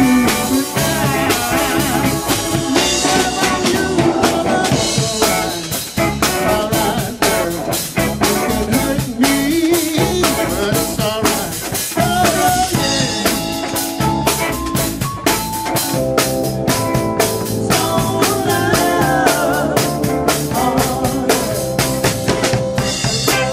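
Live band playing a song with a full drum kit keeping a steady beat, rimshots on the snare, bass and melodic instruments over it.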